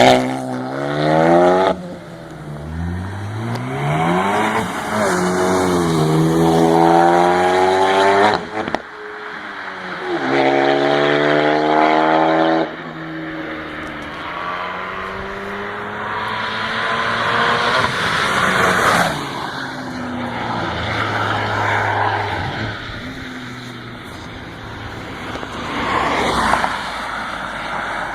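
Ford Focus ST with an aftermarket exhaust, revved three times, the engine note climbing in pitch and dropping away, each rev cut off sharply. Then a rougher, steadier exhaust note with two louder swells as the car is driven.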